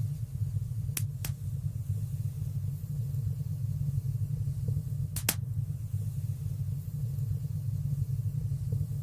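Wood fire burning in a fireplace: a steady low rumble of flames with a few sharp crackling pops, two close together about a second in and a louder one a few seconds later.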